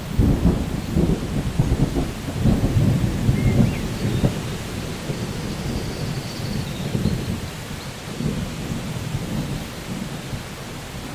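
Steady rain with rolling thunder: a low rumble that swells through the first four seconds or so and then eases off under the rain.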